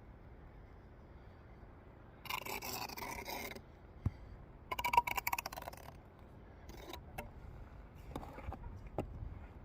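Mason's steel trowel scraping mortar against brick in two strokes of about a second each, with a sharp tap between them and a few light taps near the end.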